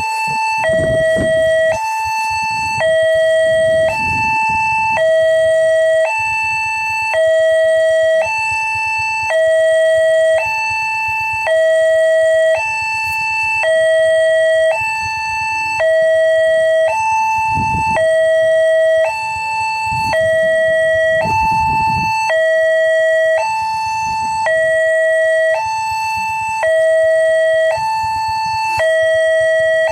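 Railway level-crossing warning signal sounding: an electronic two-tone alarm alternating between a higher and a lower tone, each held about a second, the signal that a train is approaching. Low rumbles rise and fall twice past the middle.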